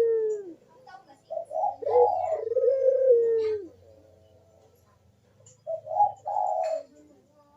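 Puter dove cooing its 'kuk deruk' song (manggung): two low, rolling coo phrases a few seconds apart.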